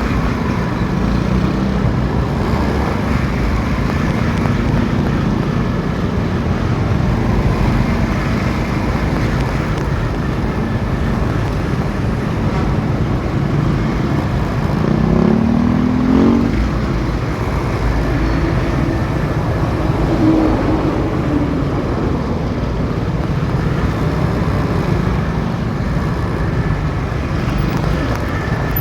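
Motorcycle engine running steadily while riding, under road and traffic noise. About fifteen seconds in, a rising engine note is heard briefly as the revs climb.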